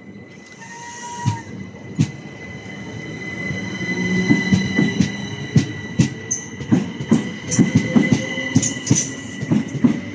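Electric multiple unit train approaching and running through the station, growing louder over the first four seconds. Its wheels then click rapidly and irregularly over the rail joints, over a steady high-pitched whine.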